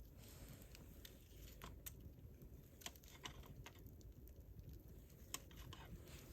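Faint wood campfire crackling: scattered sharp pops and clicks from the burning wood over a low steady rumble, the loudest pop about five seconds in.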